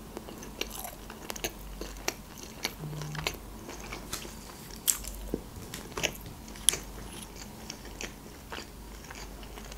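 Close-miked mouth sounds of a person chewing sushi rolls: irregular sharp clicks and smacks with closed-mouth chewing.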